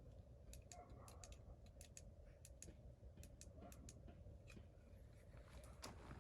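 Near silence broken by faint, irregular small clicks and ticks, a few each second.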